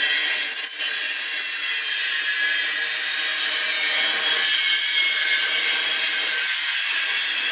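Covered hopper cars of a potash freight train rolling past, their steel wheels grinding and squealing on the rails in a steady high-pitched screech.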